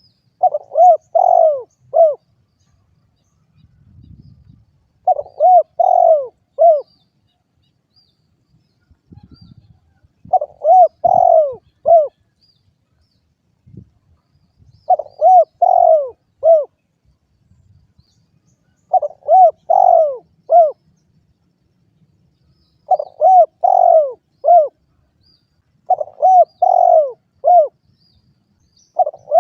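Spotted dove (derkuku) cooing: about eight phrases, each of four or five rounded notes, repeated every four seconds or so.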